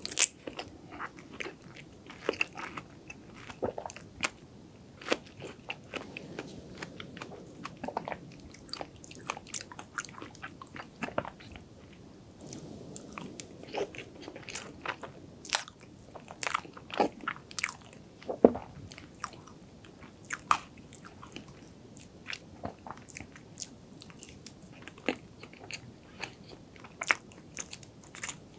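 Close-miked mouth sounds of someone chewing chocolate sponge cake with whipped cream: a steady run of short, sharp clicks and smacks.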